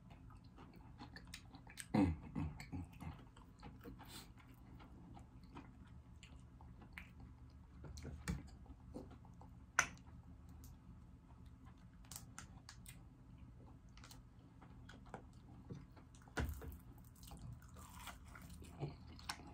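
Close-up eating sounds of a person biting into and chewing pancake-battered fried chicken, with scattered crunches and clicks; the loudest bites come about two seconds in and again near the end.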